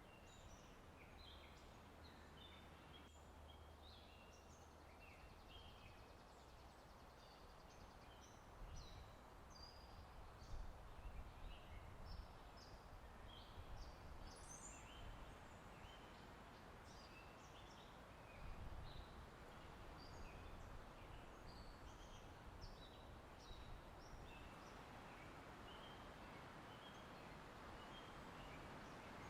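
Faint birdsong: many small birds chirping and twittering throughout, over a low wind rustle that swells now and then.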